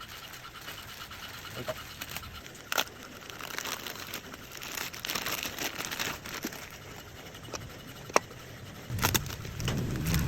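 Scattered sharp clicks, taps and rustling, then about nine seconds in a Yamaha Mio Sporty scooter engine starts running with a low rumble.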